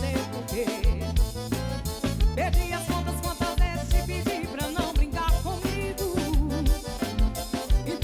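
Live band playing an upbeat pop song with a steady kick-drum beat and a wavering melody line over bass and chords.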